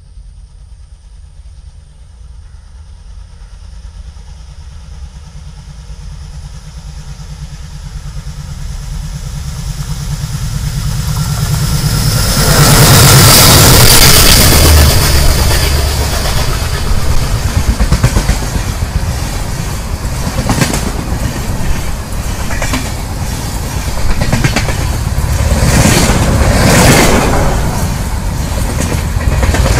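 An express train hauled by twin WDM3D ALCO diesel locomotives approaches, growing louder over about twelve seconds, and the locomotives pass with a low engine rumble. Its LHB coaches then rush past with repeated sharp wheel clatter on the rails.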